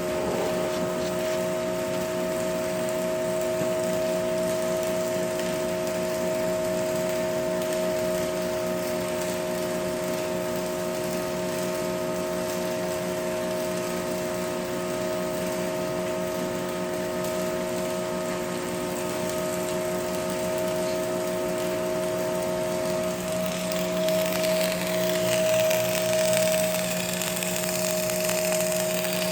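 A power tool running steadily with an even motor whine, and a crackling hiss that grows louder in the last few seconds.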